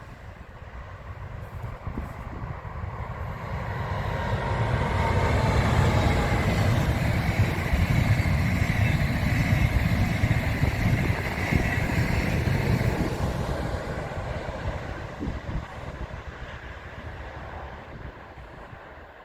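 A train passing on the line: its rumble and rail noise build up over a few seconds, stay loud for several seconds through the middle, then die away near the end. A faint whine, falling slightly in pitch, rides over the rumble as it comes closest.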